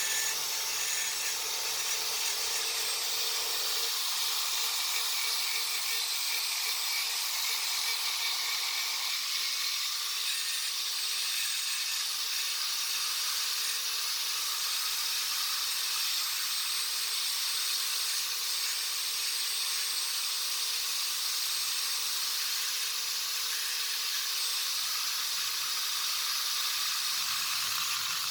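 A small power tool running steadily, a constant high hiss with a faint steady hum underneath.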